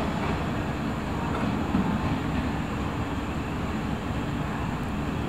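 JR West 381 series electric limited express train pulling slowly into the station: a steady low rumble of its wheels and running gear on the rails.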